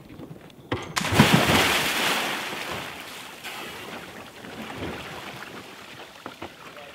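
Seawater rushing and splashing around a sailing yacht's hull: a loud surge about a second in that fades over a couple of seconds into a steady wash of water and wind.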